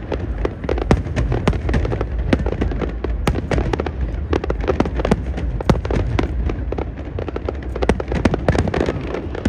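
Aerial fireworks display: a rapid, unbroken barrage of bangs and crackles over a continuous low rumble.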